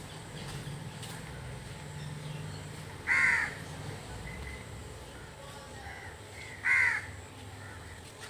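Crow cawing: two loud single caws about three and a half seconds apart, with another starting right at the end.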